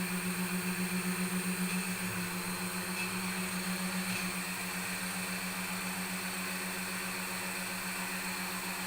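Sewing machine motors running steadily with a constant hum and a hiss of motor noise. The hum wavers in level for the first few seconds, then evens out.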